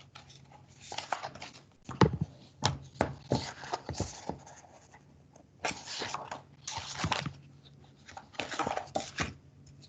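Irregular rustling, scraping and clicking handling noises, as of a picture book being held up and moved close to the camera, with a faint low hum underneath.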